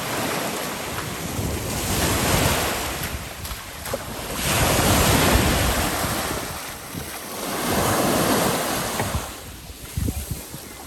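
Sea surf breaking on the shore in three swelling, fading waves, about three seconds apart, with wind buffeting the microphone.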